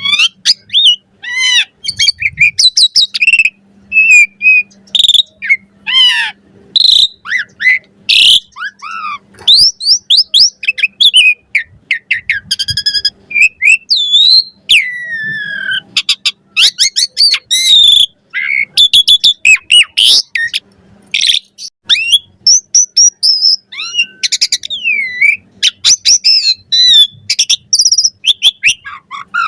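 Asian pied myna (jalak suren) singing continuously in full song: a rapid, varied run of loud whistles, chirps and harsh notes with sweeping rising and falling glides, with only brief gaps.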